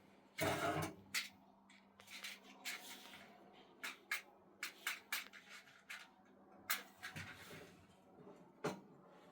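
Irregular scraping and rubbing with light knocks, like hands working rough material, over a faint steady hum.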